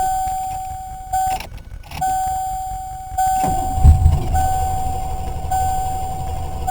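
A steady high warning tone from the dashboard sounds with a few short breaks. About three and a half seconds in, the starter begins cranking the hard-starting V8 with a low, pulsing rumble, loudest just before the four-second mark, and it has not yet started.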